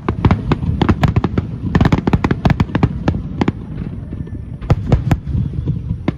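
Fireworks bursting overhead in a rapid barrage: many sharp bangs, several a second, over a continuous low rumble of echoing reports, thinning briefly about two-thirds of the way through before picking up again.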